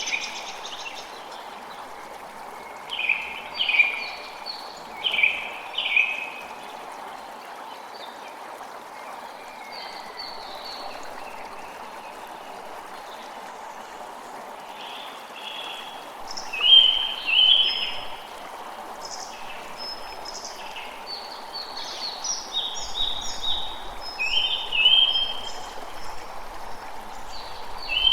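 A creek running steadily, with birds chirping over it in short repeated clusters of calls.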